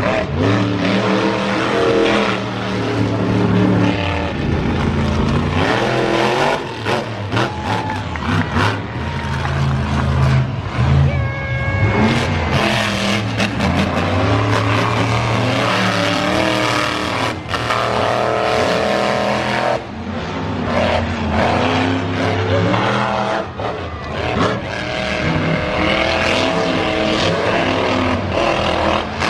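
Monster truck engine revving hard, its pitch climbing and dropping again and again, with several sharp bangs in the middle stretch.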